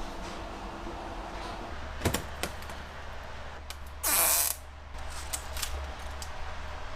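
Refrigerator and packaged blind boxes being handled. A low steady hum comes on, then two sharp clicks, then a loud half-second swish about four seconds in, followed by a few light taps.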